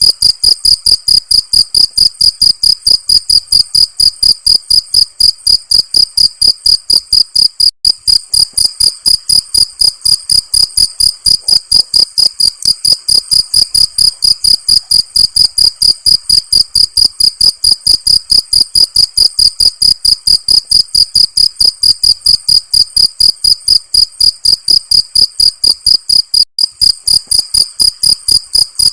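Cricket chirping: a loud, steady, evenly spaced train of high-pitched chirps, about four a second.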